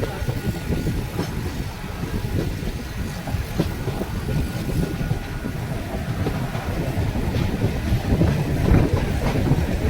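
Mumbai suburban fast local electric train running along the track: a steady low rumble with occasional clanks of wheels over rail joints.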